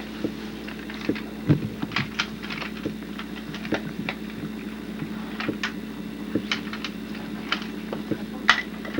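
Irregular light clicks and knocks of toys being handled over a steady hum, with a duller knock about a second and a half in and a sharper click near the end.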